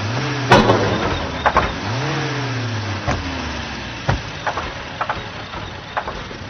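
A 1959 Alfa Romeo Giulietta Spider's engine idling with two quick throttle blips, one at the start and one about two seconds in, each rising and then falling back. There is a sharp knock about half a second in and a few lighter clicks. The engine is kept running with the car stuck in second gear, because the overheating starter might not restart it.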